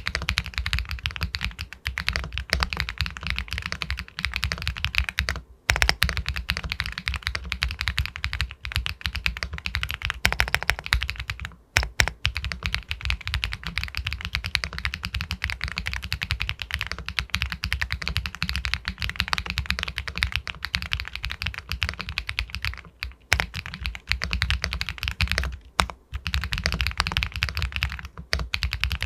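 Fast, continuous typing on an Epomaker Galaxy 80 Pro aluminium mechanical keyboard with White Jade linear switches, a dense run of keystrokes. It breaks off briefly a few times, around a quarter, two-fifths and four-fifths of the way through.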